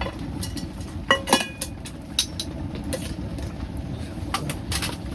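Metal utensils clinking against camp cookware several times, each a short ringing clink, over a steady low rumble.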